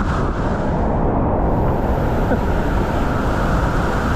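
Steady roar of Niagara Falls close by, a loud, even rushing with no let-up, heaviest in the low end.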